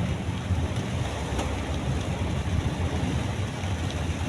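Steady low rumble of a car's engine and road noise heard inside the cabin, with an even hiss of heavy rain.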